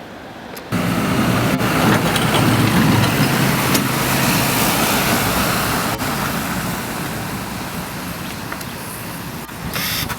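A car running close by, its engine and tyres loud at first and then slowly fading as it moves off.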